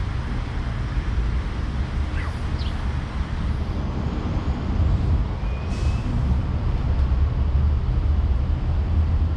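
Steady low rumble of road traffic, with a brief hiss about six seconds in.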